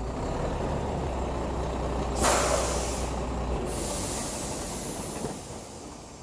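Cargo truck's engine running low and steady, with a sharp burst of air-brake hiss about two seconds in. The engine hum stops about a second later, followed by a longer air hiss.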